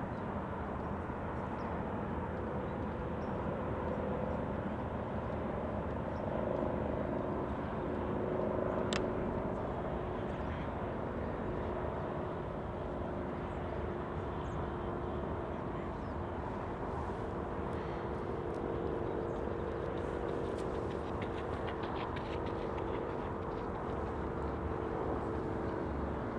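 Steady outdoor background noise with a faint droning hum, like a distant engine, that drifts slowly in pitch. There is a single sharp click about nine seconds in, and a few faint ticks later on.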